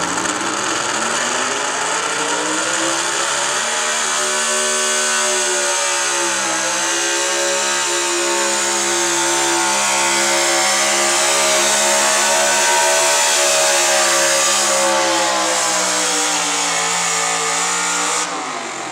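Gasoline 4x4 pickup truck engine at full throttle under heavy load during a truck pull. The pitch climbs over the first few seconds, sags briefly about six seconds in, then holds high and steady until the throttle is let off near the end.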